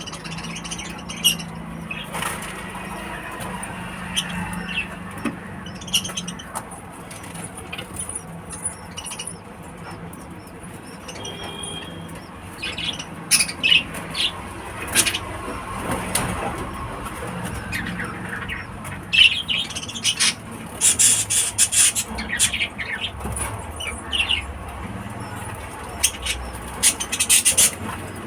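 Pet African lovebirds giving shrill chirps and squeaks in short bursts, bunched in clusters in the second half, over a low steady hum in the first few seconds.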